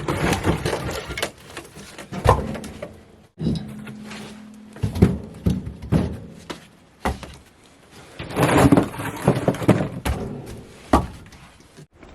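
A series of irregular knocks and thuds, with a couple of abrupt cuts between them.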